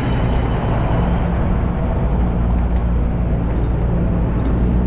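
Steady road and traffic noise heard from a moving bicycle: a continuous low rumble of cars and motor vehicles.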